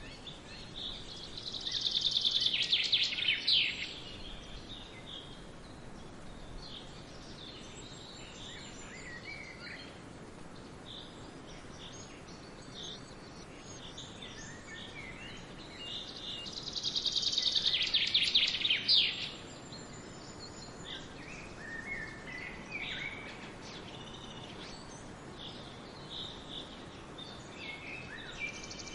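Wild birds singing over a steady outdoor hiss: one bird gives a loud, rapid trilling song twice, each lasting about two to three seconds, while other birds chirp briefly in between.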